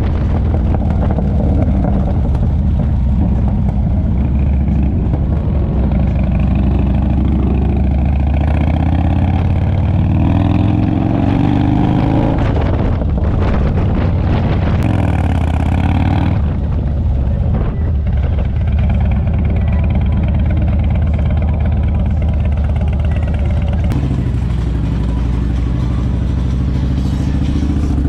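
Harley-Davidson touring motorcycle's V-twin engine running under way, its pitch rising in steps as it accelerates through the gears, then settling to a steady cruise. A brief hiss of wind about fifteen seconds in.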